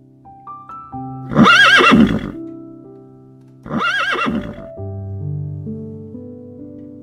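A horse whinnying twice, each call about a second long with a wavering pitch, over piano music.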